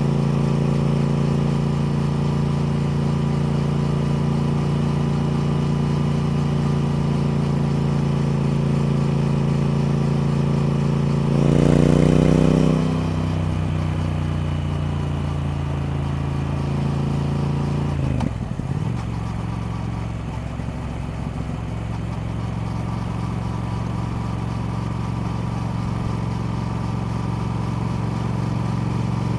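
Triumph Speed Twin parallel-twin engine running steadily, with a brief rev that rises and falls about twelve seconds in and a drop to a lower, steady note about eighteen seconds in.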